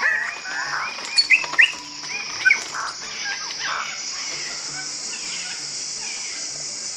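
Birds chirping and calling in quick short notes, busy for the first three seconds and then only now and then, over a steady high-pitched hiss.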